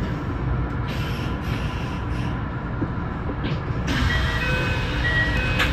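Kintetsu 6820 series electric commuter train running on the line: a steady rumble of wheels on rails, with short high steady tones coming and going in the last two seconds.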